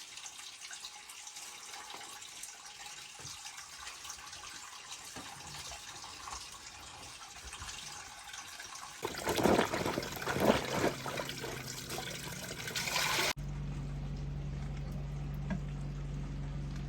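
Water running with a steady hiss, then splashing more loudly and unevenly for a few seconds. About thirteen seconds in it switches abruptly to a steady low hum.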